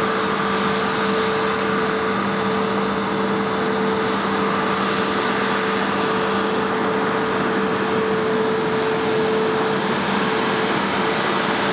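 Jet aircraft engines running steadily at low power: a constant even rush with a steady hum and whine that do not change in pitch.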